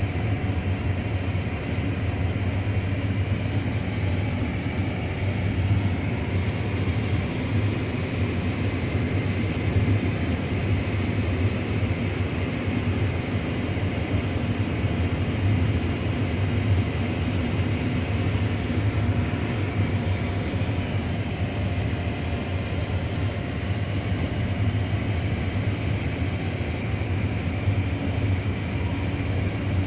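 Steady engine and machinery drone: a strong low hum with an even rushing noise above it, unchanging in pitch and level.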